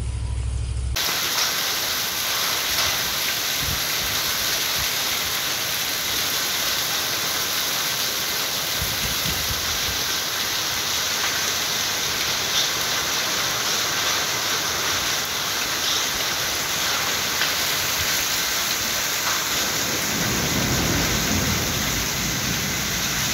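Heavy rain mixed with hail falling on pavement and surroundings: a steady, dense hiss with a few faint sharp taps.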